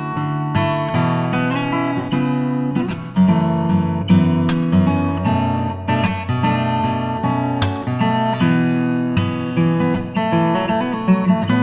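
Background music: acoustic guitar picked and strummed, with chords and single notes starting sharply and ringing.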